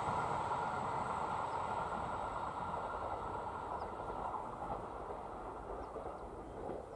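A passenger express train's rumble on the rails, fading steadily as it moves away.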